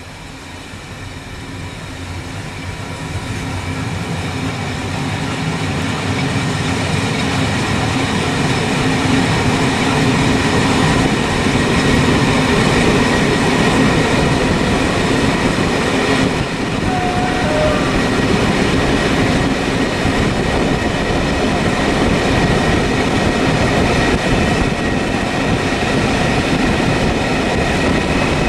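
A train running on rails, growing louder over the first ten seconds, then holding steady.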